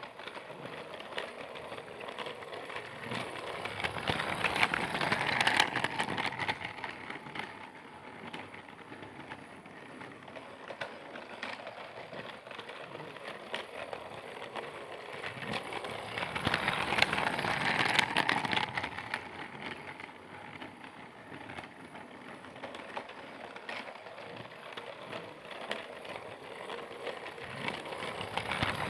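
Train sound effect named for Percy the tank engine: a continuous rattling, crackling running noise that swells louder twice, about twelve seconds apart.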